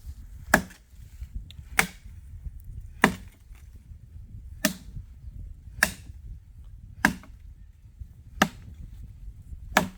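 A sharpened foice (brush hook) chopping dry wood: eight sharp strikes, about one every second and a bit.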